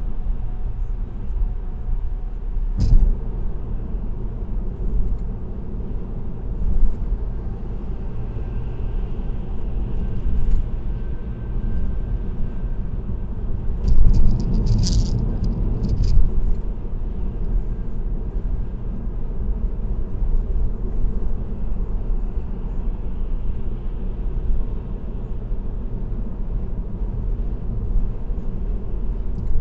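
Car cruising on an expressway: steady low rumble of tyres and engine. A rattle about three seconds in and a short run of rattles about halfway through.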